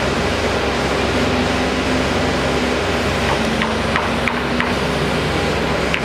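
Steady noise of road traffic, with a faint hum and a few short, high clinks in the second half.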